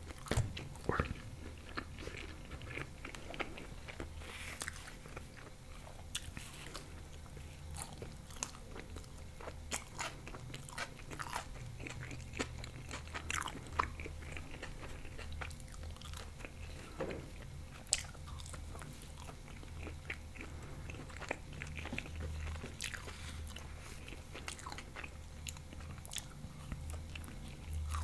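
Close-miked eating of thin-crust bechamel pizza with ham and onion: a bite about a second in, then steady chewing with many small, sharp, wet mouth clicks.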